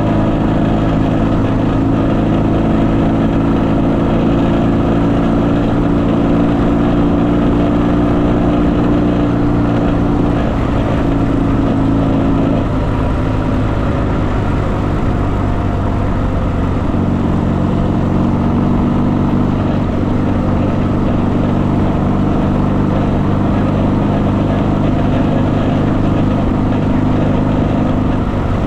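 Motorcycle engine running steadily. Its even note blurs and shifts for a few seconds midway, then settles again.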